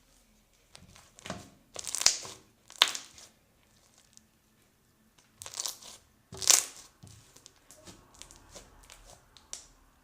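Slime being squeezed and pressed by hand, giving crackling, popping air-pocket sounds in two loud bouts, about a second in and around six seconds in, with softer crackles after.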